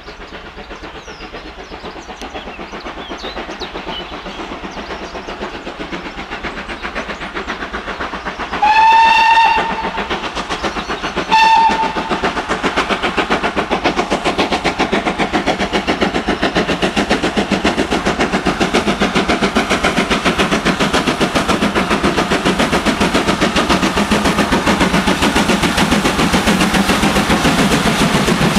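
GWR 42xx 2-8-0T steam tank engine working hard, its rapid exhaust beats getting steadily louder. It sounds two whistle blasts, a longer one about nine seconds in and a short one about two seconds later.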